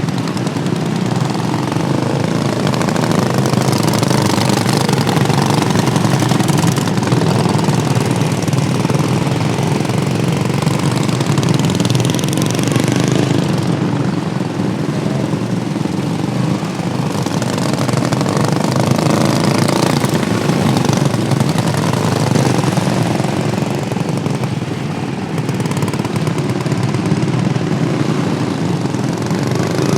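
Modified racing lawnmower engines running hard around the track in a steady, unbroken drone of engine noise.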